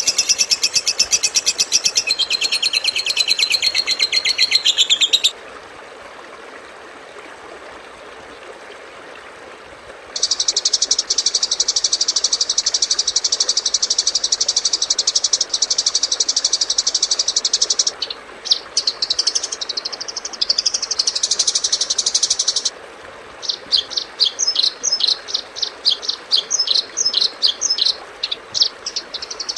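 Recorded high-pitched songbird calls played as a bird-tutoring (masteran) track: fast buzzy trills for the first few seconds, then a pause with only hiss. After that comes a long, even rapid trill, a few varied notes, and a quick chattering series of short notes near the end.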